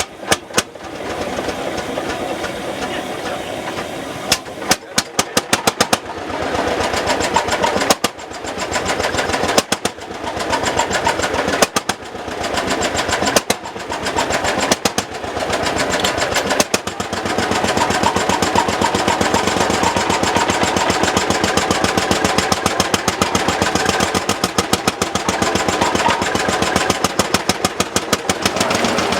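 Lanz Bulldog's single-cylinder hot-bulb two-stroke engine running with a fast, even beat of firing strokes. It breaks off briefly several times in the first half, then runs steadily.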